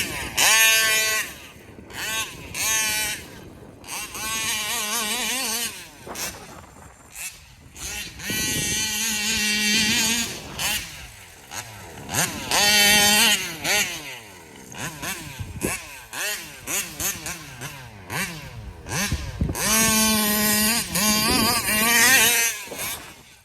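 A Taylor 35 reed-valve two-stroke engine on its stock 1107 carburetor, in a large-scale RC car, revving up and down. Its pitch rises and falls in repeated loud bursts of throttle, with quieter stretches between.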